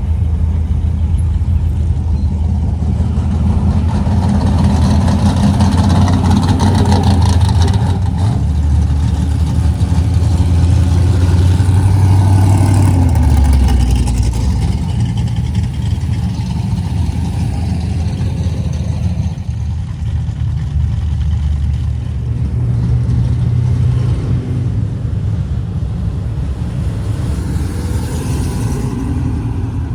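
Classic cars driving slowly past with their engines running: a deep, low rumble that drops in pitch about thirteen seconds in.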